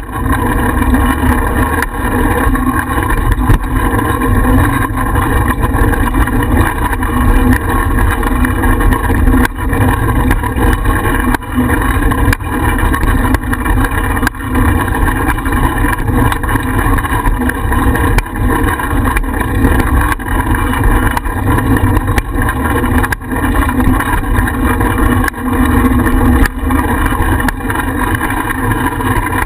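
Wind rushing over a bike-mounted GoPro's microphone while riding: a loud, steady rumble with occasional light knocks.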